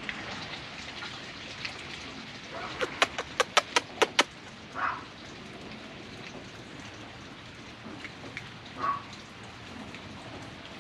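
Rain pattering steadily, with a quick run of about seven sharp clicks, some five a second, about three seconds in.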